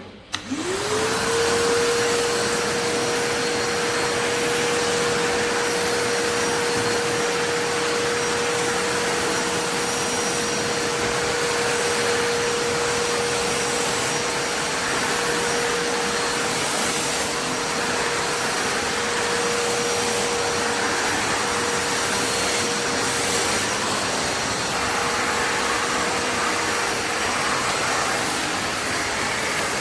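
Kärcher WD 4 S wet/dry vacuum cleaner switched on, its motor spinning up within about a second to a steady whine, then running steadily with a rush of airflow.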